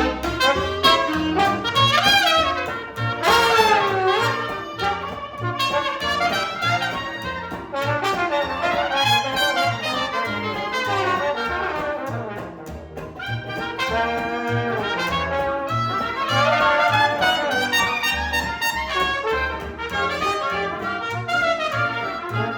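Live jazz band with trumpet and trombone playing, the horn lines bending and sliding in pitch over a steady low beat.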